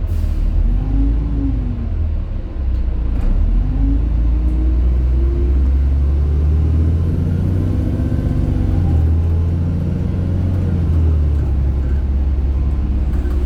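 LiAZ 5292.67 city bus running on compressed natural gas, its Weichai engine and automatic gearbox drivetrain whining up and down in pitch several times as the bus speeds up and slows, over a heavy low rumble.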